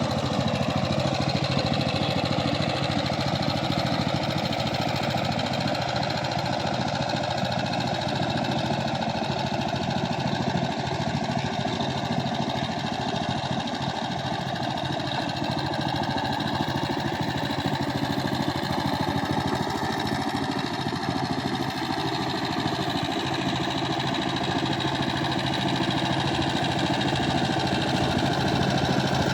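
Power tiller engine running steadily with a rapid, even chugging, its pitch wandering only slightly.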